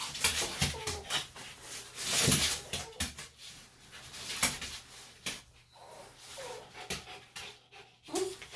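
Senior Bichon–Shih Tzu mix whimpering with short whines several times while he struggles against being held for ear grooming, with scuffling and rustling from the struggle.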